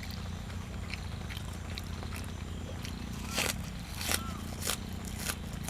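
A person chewing close to the microphone, biting into crunchy food in sharp crunches about every half second in the second half, over a steady low hum.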